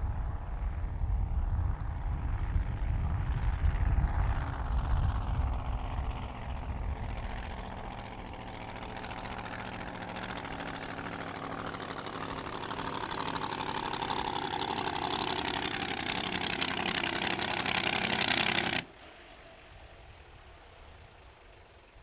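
Racing hydroplane engine running, heavy and rumbling at first, then steadier and growing louder and higher-pitched. About three seconds before the end it cuts off abruptly.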